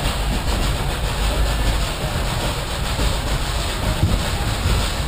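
Narrow-gauge train running along the rails: a steady, unbroken noise from the moving cars, strongest in the low end.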